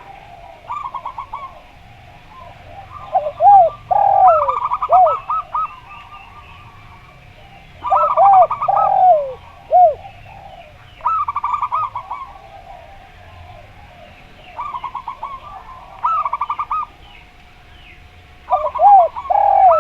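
Zebra dove (perkutut) song and spotted dove (derkuku) cooing, phrase after phrase. Rapid trilled runs of short cooing notes alternate and overlap with deeper, arched, downsweeping coos, in about half a dozen phrases a few seconds apart.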